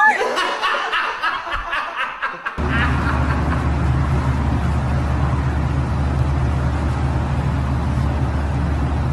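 A person laughing in quick repeated pulses. About two and a half seconds in this cuts abruptly to a steady low rumble with a hiss that carries on unchanged.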